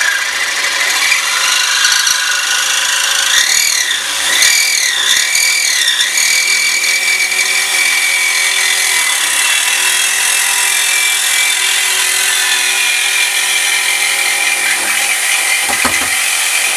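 Power tool cutting through the old exhaust, running continuously. Its high whine wavers up and down in pitch for a few seconds as the cut loads it.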